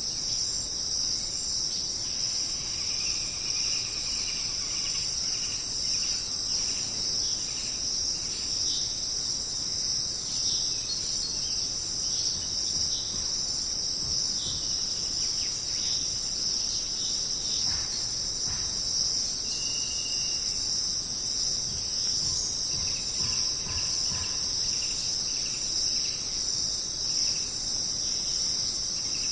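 Jungle night ambience: a steady, dense, high-pitched chorus of crickets and other insects, with scattered short calls from birds or frogs underneath.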